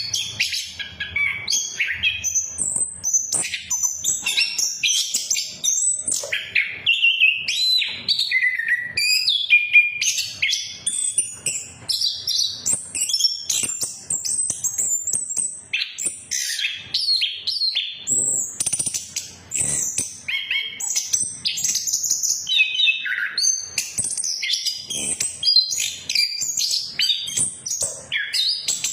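Chestnut-capped thrush (anis kembang) singing nonstop, a fast, varied run of whistles, chirps and trills with no pauses.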